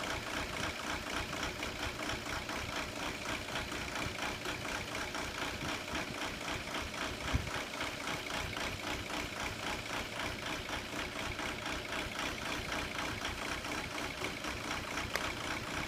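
2002 VW Jetta TDI's four-cylinder turbodiesel idling with an even pulsing beat, with a single low knock about seven seconds in. The rough idle is the fault the owner ties to code 17970, injection quantity upper limit reached at the N146 quantity adjuster.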